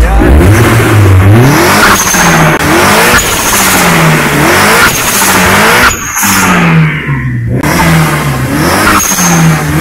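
Turbocharged 4G63 four-cylinder of a Mitsubishi Lancer Evolution III revved in quick throttle blips, about one a second, the pitch dropping back after each. A short, slightly whistling release from the HKS blow-off valve follows several of the blips.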